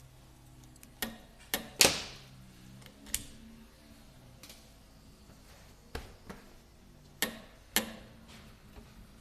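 Irregular sharp clicks and knocks, about seven in all and the loudest a little under two seconds in, from hand tools and parts of a VE distributor-type diesel injection pump being handled on the bench during its repair.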